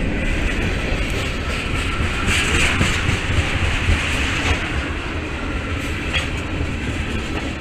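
Freight train cars rolling past close by: a steady, loud rumble of steel wheels on rail with scattered clacks as wheels cross rail joints, easing off a little toward the end.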